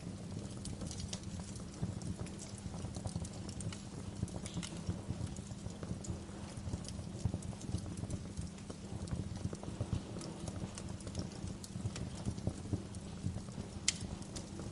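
Wood fire crackling in a fireplace: a steady, dense run of small low pops with a few sharper snaps, one clear snap near the end.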